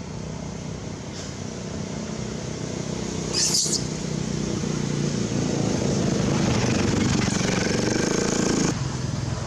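A motor vehicle's engine running, growing louder over several seconds and then cutting off abruptly near the end. A brief high-pitched squeal sounds about three and a half seconds in.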